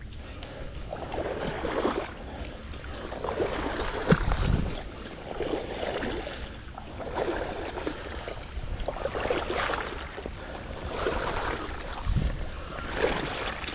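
Water sloshing and lapping in repeated surges about every one to two seconds, with a couple of low thumps.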